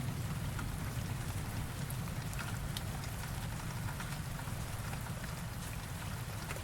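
Steady heavy rain with scattered sharp drop taps. Under it runs a low thunder rumble that slowly dies away.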